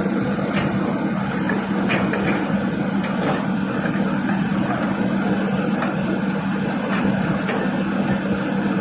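Excavator's diesel engine running steadily, with a few faint light knocks.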